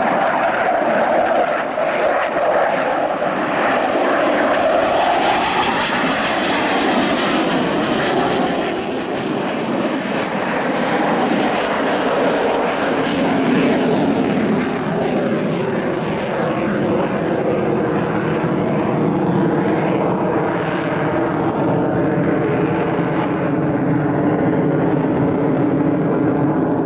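Aircraft engine running steadily, its pitch sliding slowly down and up, with a brighter, hissier stretch a quarter of the way in.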